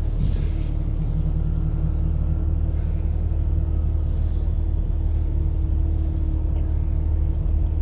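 Steady low rumble of a car's engine and tyres on the road, heard from inside the cabin while driving, with a faint constant hum over it.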